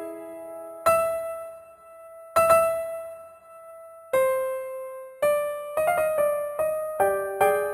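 Solo piano music. A few slow single notes ring out more than a second apart, then quicker notes follow from about five seconds in, each struck and fading.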